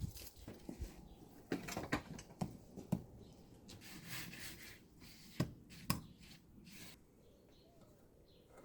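Hand masonry work on stone and mortar: scattered sharp knocks and clicks, with a rasping scrape about four seconds in.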